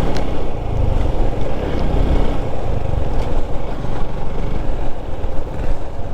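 Motorcycle engine running steadily on the move, under a heavy rumble of wind buffeting the helmet-mounted camera microphone.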